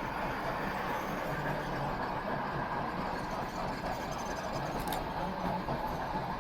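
Steady running noise of a passing train, an even rumble with no horn or whistle.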